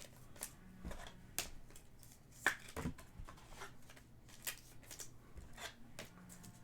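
Panini Prizm trading cards being flipped and slid through the hands, giving a faint run of light, scattered clicks and snaps, the sharpest about two and a half seconds in.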